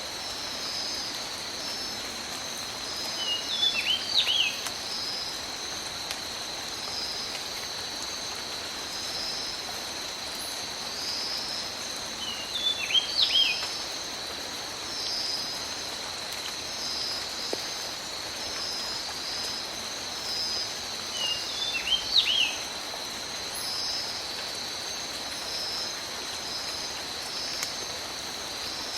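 Steady tropical rain falling in a forest, under a constant high, evenly pulsing insect chorus. A bird calls a short phrase of quick high notes three times, about nine seconds apart.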